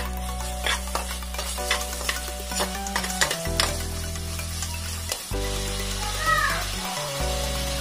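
Chopped onions sizzling in hot oil in a pressure cooker while a spoon stirs them, with repeated clicks and scrapes of the spoon against the pan. Low background music plays underneath.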